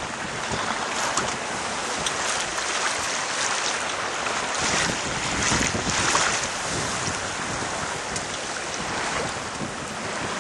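Water rushing along the hull of a sailing yacht under way, with wind buffeting the microphone; the wash swells a little louder about five to six seconds in.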